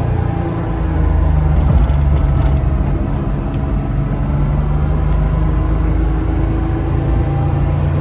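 1970 Porsche 911S's air-cooled flat-six engine running as the car is driven, heard from inside the cabin; the engine note rises and falls slightly with speed.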